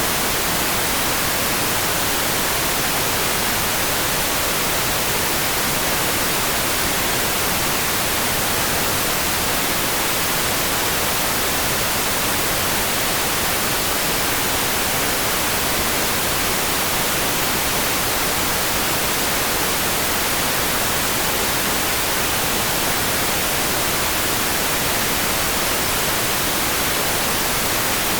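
Steady, even hiss of heavy rain for sleep, strongest in the high range, with no single drops or other sounds standing out.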